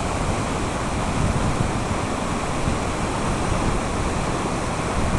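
Floodwater of the Grand River rushing past the dam in a steady, unbroken rush, with some wind on the microphone.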